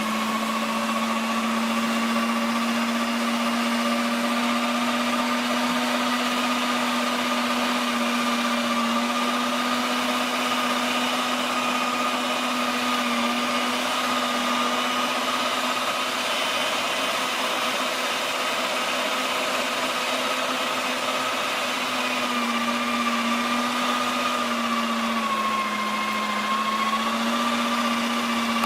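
Cuisinart electric meat grinder running, its motor giving a steady hum as it grinds short ribs; the pitch dips slightly a few times in the second half.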